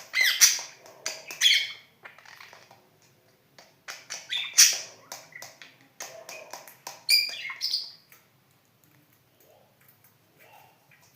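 Pet budgerigar chattering and squawking in three bursts of high, sweeping calls, then falling nearly quiet near the end.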